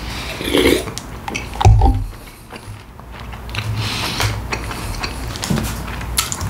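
Close-miked eating of McChicken sandwiches: irregular chewing and biting mouth sounds with short clicks, and a low thump about a second and a half in.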